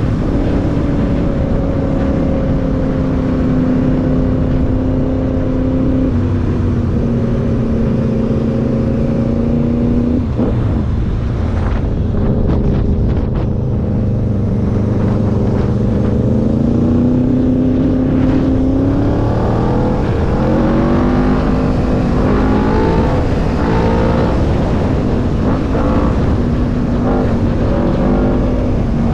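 Yamaha motorbike engine running on the road under load, with heavy wind and road rumble. It holds a steady pitch, drops off briefly about ten seconds in, then climbs in several steps a little past the middle as it accelerates through the gears, and settles to a steady cruise near the end.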